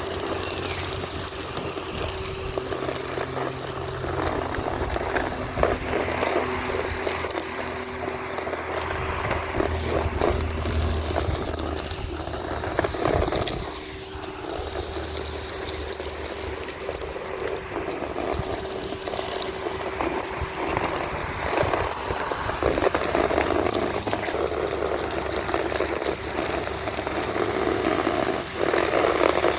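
Henry HVR 200-22 vacuum cleaner running with a steady motor whine while sucking up street grit and debris, which crackles and rattles through the hose.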